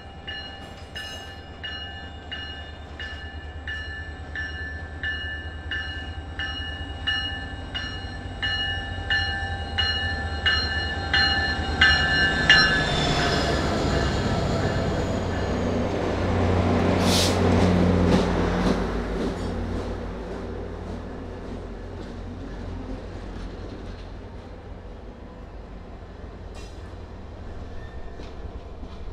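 MBTA diesel locomotive approaching and passing with its bell ringing about twice a second; the bell's pitch drops as it goes by and then stops. The engine and wheels pass loudly with a brief sharp hiss, then the passenger cars roll by with softer wheel noise on the rails.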